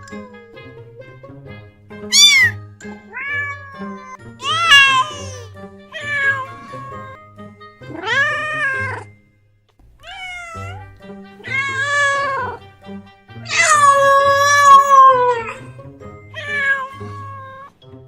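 Domestic cats meowing, about eight separate meows of varying pitch and length; the longest, drawn-out meow comes near the end. Background music plays under them throughout.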